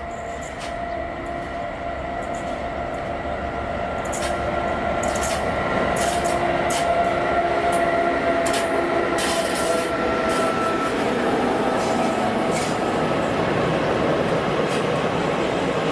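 Train approaching and running past, getting louder over the first six seconds and then staying loud. Through it run a steady whine and repeated sharp clicks from the wheels on the track.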